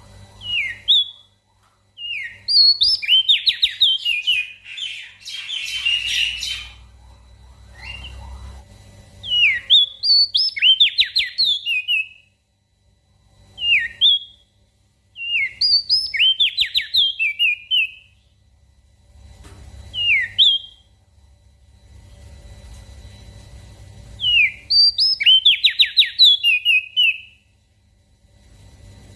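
Crested dark-eye (opior jambul) singing: a short sharp note, then a rapid run of clear, quickly sliding whistled notes, repeated every few seconds. A brief hissy rustle comes between phrases near the start.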